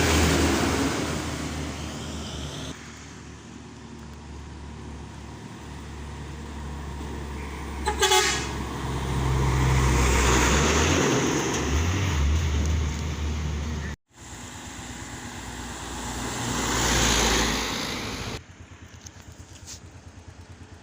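Trucks driving past one after another, their engine and tyre noise swelling and fading, with a short horn toot about eight seconds in.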